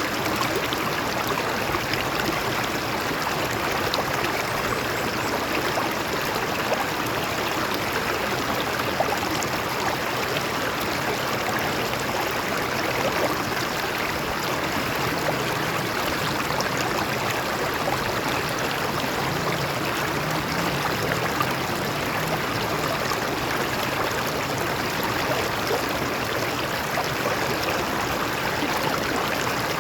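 Shallow stream water flowing over rocks, a steady even rush.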